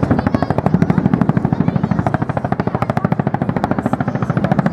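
Boeing CH-47 Chinook's tandem rotors beating: a fast, even chopping of blade slap, about twenty beats a second, over a low drone.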